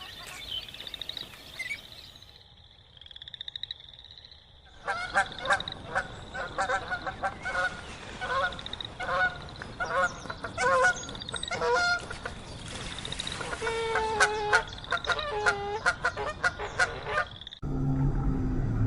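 A rapid run of short, honk-like animal calls repeated many times over a steady high chirping, stopping abruptly near the end.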